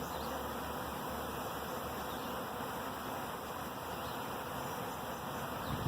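Honeybee swarm buzzing steadily, many bees clustered and flying on the outside of a nuc box rather than marching in.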